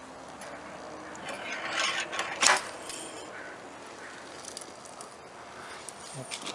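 Mechanical clicking and ratcheting of a glue-pull dent puller being worked on a glue tab stuck to the car panel. A single sharp snap comes about two and a half seconds in: the glue tab letting go of the sheet metal before the dent comes out.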